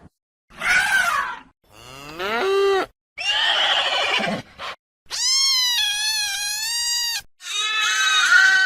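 A run of about five different animal calls, one after another, each one to two seconds long with short gaps between. One rises in pitch and the longest is a drawn-out wavering call, the kind of calls heard from farm animals such as cattle.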